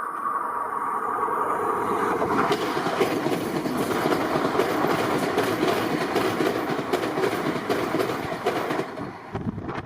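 Passenger train passing at speed: the coaches' steel wheels clacking rhythmically over the rail joints, loudest in the middle and dying away about nine seconds in. A steady high tone fades out in the first two seconds.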